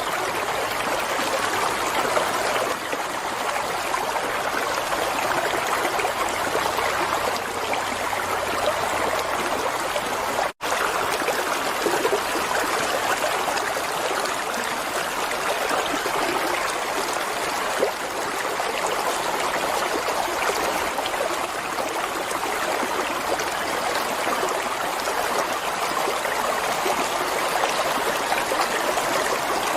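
Running water of a stream flowing and babbling steadily. The sound cuts out for an instant about ten seconds in, then carries on unchanged.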